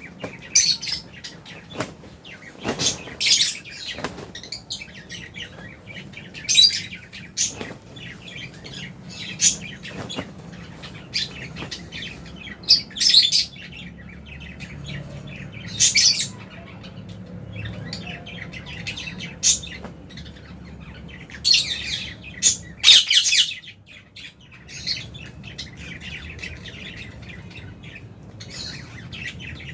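A flock of lovebirds chirping, with many short, sharp, high calls at irregular intervals, some in quick clusters.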